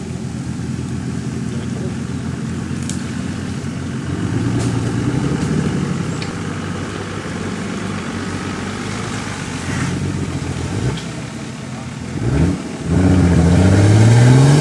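Off-road 4x4's engine labouring as it drives through deep mud, with the revs climbing sharply near the end.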